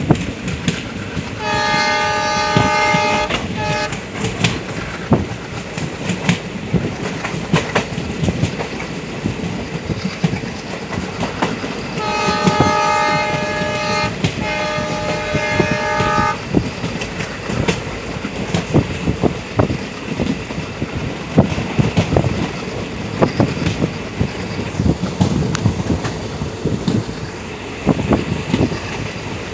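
Running noise of a passenger train heard from on board, wheels clattering over the rail joints. The locomotive horn sounds twice: a short blast about a second and a half in, and a longer one of about four seconds, broken by brief gaps, near the middle.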